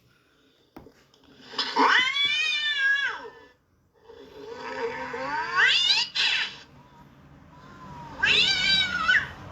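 Cat yowling: three long, drawn-out meows, each bending up and then down in pitch.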